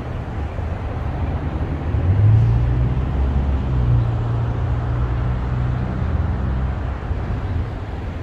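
Steady low rumble of road traffic, with the deeper hum of engines swelling a little about two seconds in.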